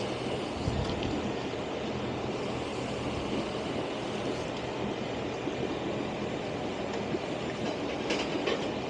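Steady running of an engine with an even noise over it, and a few short clicks about eight seconds in.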